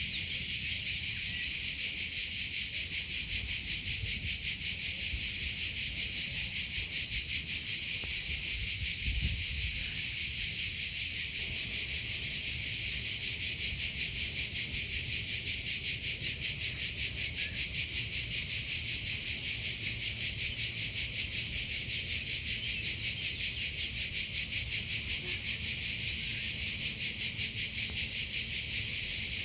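Cricket chirping in a continuous high-pitched trill with a quick, even pulse.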